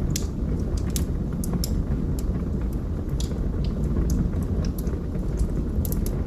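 Wood fire burning in a fireplace: a steady low rumble of flames with irregular sharp crackles and pops from the burning wood, about a dozen through the stretch.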